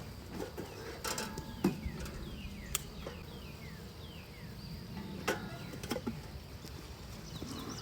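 A low steady hum, typical of honey bees buzzing around an open hive. Over it, a bird sings a quick series of falling whistled notes about two and a half seconds in, and several sharp clicks and knocks come from equipment being handled.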